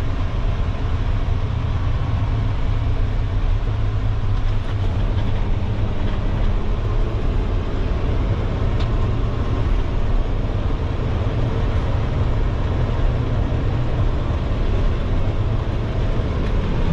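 Diesel engine of a Peterbilt dump truck running steadily with a low rumble while the truck drives slowly at a gravel pit.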